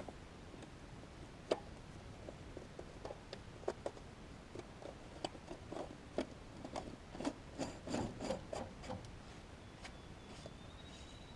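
Hands refitting the fuel filter and bowl on a diesel tractor's fuel filter housing: scattered light scrapes and clicks of parts being handled and threaded together, busiest about two-thirds of the way through.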